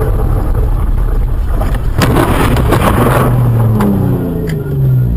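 Car engine running, heard from the dashcam, with a sharp bang about two seconds in followed by about a second of loud harsh noise. Low falling tones follow near the end.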